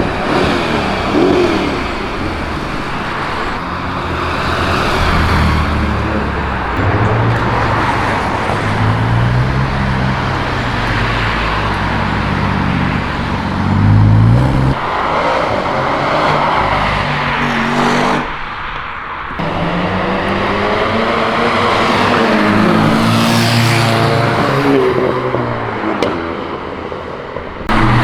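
A string of performance cars driving past one after another, engines revving and accelerating, their notes rising and falling as each one goes by. The sound breaks off abruptly a few times between passes.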